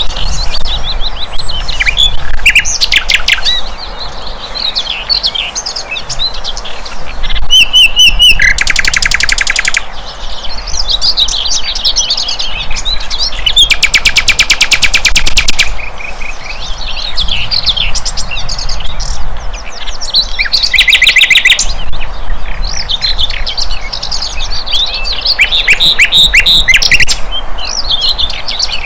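Sikatan londo flycatcher singing: a fast, varied run of high chirps and twitters, broken by rapid buzzy trills about eight, fourteen and twenty-one seconds in.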